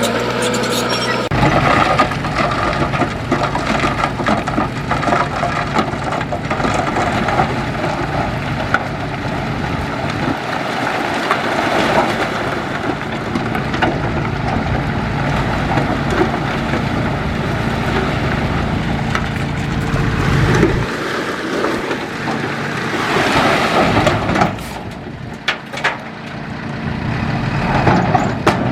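Heavy diesel earthmoving machinery running under load, its engine sound shifting about a second in and cutting away suddenly about two-thirds through, followed by a rush of noise and a few sharp knocks near the end.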